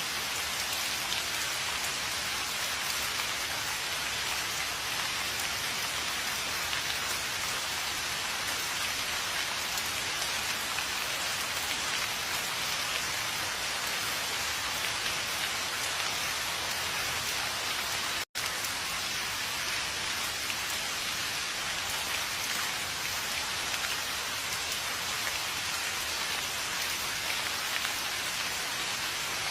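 Steady, dense rainfall, an even hiss of many drops with no let-up. The sound cuts out for an instant about 18 seconds in and resumes unchanged.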